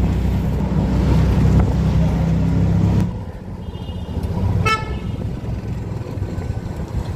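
Road traffic: a motor vehicle's engine running with a heavy low rumble that drops away about three seconds in, and a short horn toot a little later.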